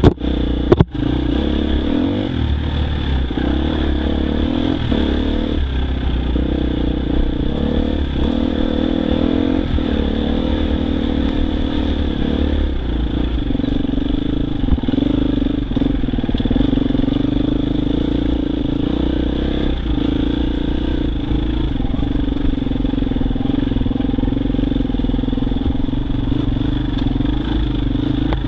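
Husqvarna FE 250 four-stroke single-cylinder enduro motorcycle engine running under load on a rough trail, its revs wavering with the throttle. Two sharp knocks come in the first second.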